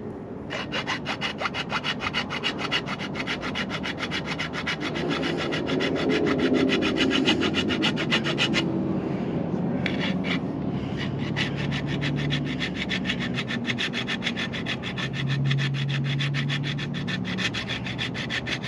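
Hand hacksaw cutting a solar-panel mounting bracket, in quick, even back-and-forth strokes. The strokes break off for about a second around the middle, then start again.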